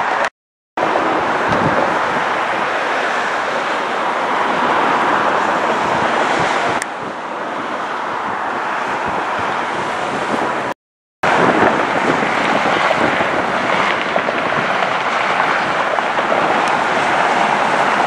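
Jet airliner engine noise, a steady rushing sound, cut off twice by a sudden brief silence.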